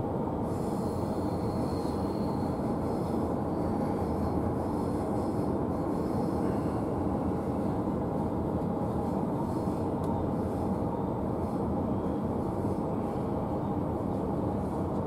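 Electric intercity train in motion, heard from inside the carriage: a steady running noise of wheels on rails and carriage, with no change in pace.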